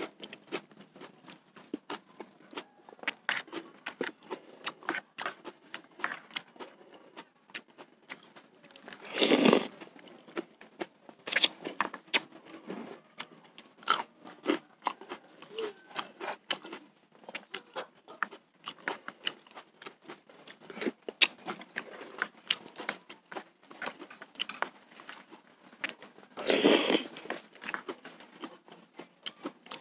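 Close-up eating sounds: a person chewing and crunching raw red chilies with bakso meatballs and noodles, with many small wet mouth clicks throughout. Two louder sounds, each about a second long, come about nine and twenty-seven seconds in.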